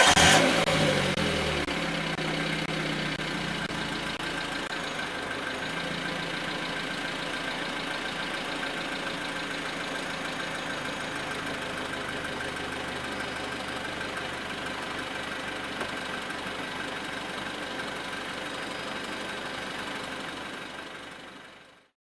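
Suzuki Wagon R+ 1.3-litre four-cylinder petrol engine idling, its speed dropping over the first couple of seconds before settling into a steady idle. The sound fades out near the end.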